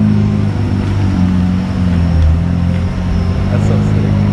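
McLaren 720S twin-turbo V8 running at low revs as the car creeps past, a steady engine note that wavers slightly in pitch.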